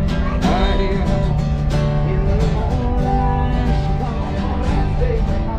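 Acoustic guitar music in a country or bluegrass style, strummed steadily with held chords.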